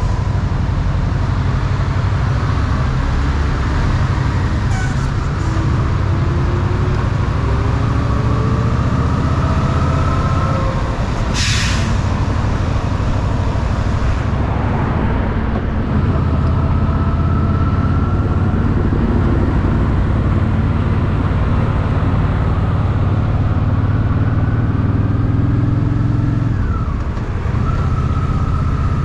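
Honda Shadow VT750's V-twin engine running under way, its pitch climbing as the bike accelerates and breaking off at gear changes, with a brief dip and recovery near the end. A short, loud hiss cuts in about twelve seconds in.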